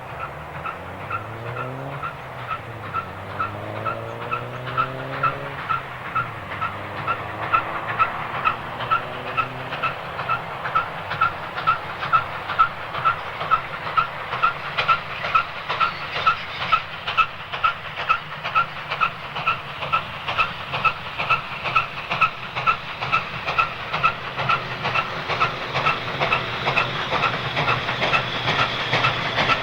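Steam locomotive working a train with its exhaust beating about twice a second over a steady hiss, growing louder as it nears. A few gliding tones rise and fall in the first ten seconds.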